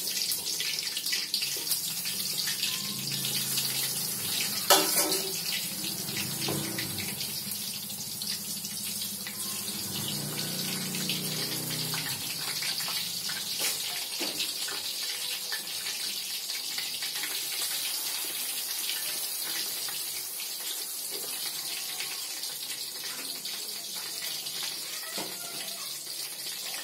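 Pounded tempe frying in hot oil in a wok: a steady sizzle, with one sharp knock about five seconds in.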